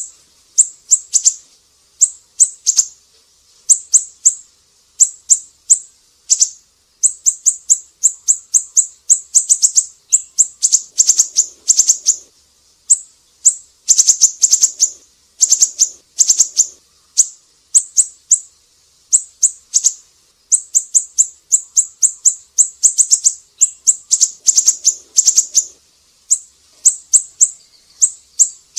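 Siri-siri bird calling: rapid clusters of short, high-pitched chips, repeated over and over with brief gaps between the clusters.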